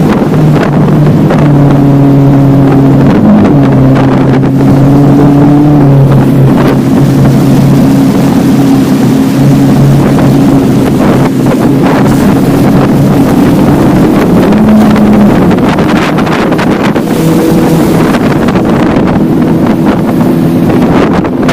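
Motorboat engine running under way: a loud, steady drone over a constant rushing noise, its pitch shifting a little now and then.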